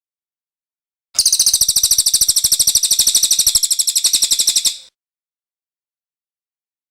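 Cililin bird singing: one fast, high-pitched trill of evenly repeated notes, about eleven a second, lasting about three and a half seconds and starting about a second in.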